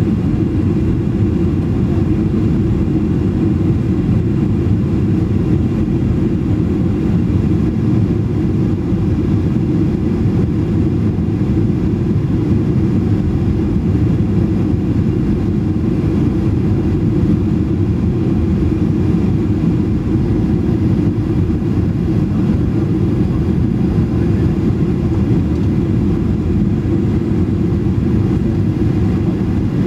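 Boeing 737 cabin noise: the steady roar of the jet engines and airflow heard from inside the passenger cabin, deep and unchanging.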